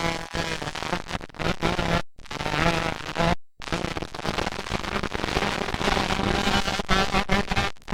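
Motocross dirt bike engines revving up and down on the track, with a crackly, distorted edge. The sound cuts out completely twice, briefly.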